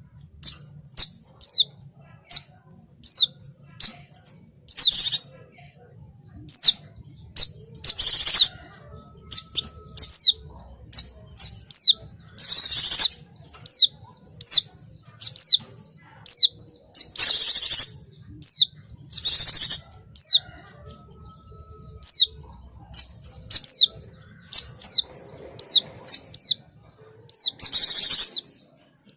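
White-eyes (pleci) calling noisily. A steady run of short, high, falling chirps comes about one or two a second, broken every few seconds by louder bursts of harsh chatter.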